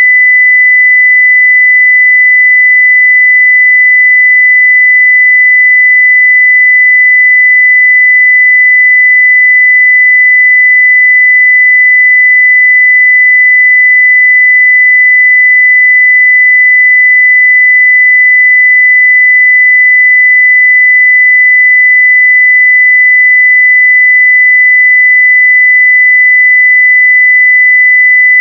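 A steady 2 kHz sine-wave test tone at full scale (0 dBFS), one constant pitch without a break.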